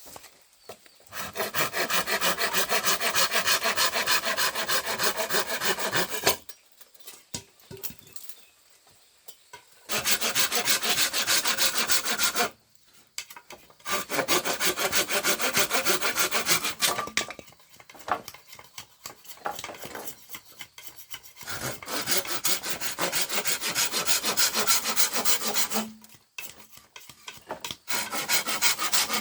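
A saw cutting through bamboo in several bouts of a few seconds each, with short pauses between them.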